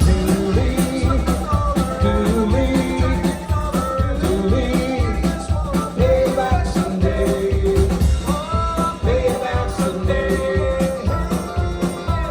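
Live band playing an upbeat country song with a steady beat.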